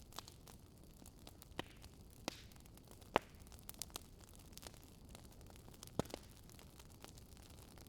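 Wood fire crackling in a fireplace: a low hiss with irregular sharp pops and snaps, the loudest a little past the middle.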